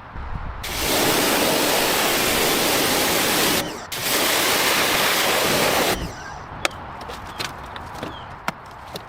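A loud, steady hiss of rushing air or spray comes in two long bursts, about three seconds and then two seconds, split by a short break. A few light clicks and taps follow.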